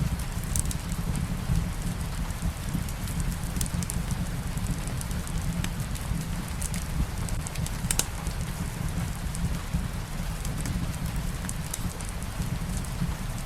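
Steady rain on a surface mixed with a wood fire crackling, with a low, even rumble underneath and scattered sharp pops and clicks at irregular moments.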